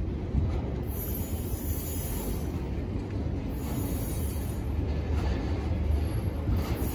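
Norfolk Southern welded rail train's flatcars, loaded with ribbons of rail, rolling past: a steady low rumble of wheels on track, with a faint high hiss that comes and goes.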